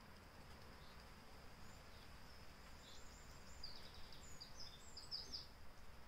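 Faint high chirps of small garden birds, a few scattered, then a quick run of them in the second half.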